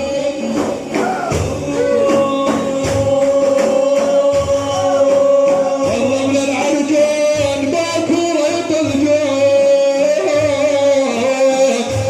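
Male voices chanting a devotional Islamic praise song (manqaba) in long held, ornamented notes, over the beat of frame drums.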